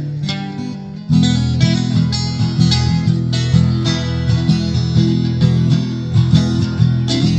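Instrumental intro of a country song on strummed guitar; about a second in, the full band comes in louder with a steady bass line.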